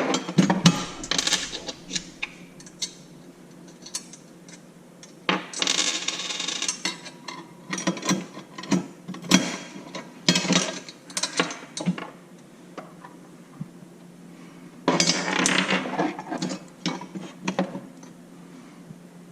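Steel parts of a motorcycle wheel chock stand being handled and fitted together: scattered clinks and knocks of metal on metal, with two longer stretches of rattling and scraping about five seconds in and again near fifteen seconds. A faint steady hum runs underneath.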